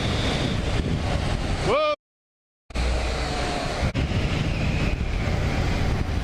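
Motorcycle riding at speed, a steady rush of wind and road noise over the engine's low rumble. Just before two seconds in, a short rising whistle is followed by a complete dropout of under a second, after which the riding noise carries on.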